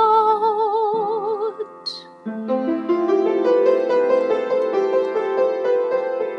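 A woman sings a slow worship melody, holding one note with wide vibrato, over soft sustained keyboard. About two seconds in the voice stops and gentle keyboard chords carry on alone.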